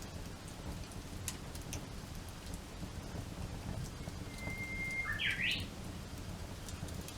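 Campfire crackling, with scattered sharp pops over a low steady rumble. About four seconds in, a bird sings one long steady whistle, then a quick rising and falling flourish.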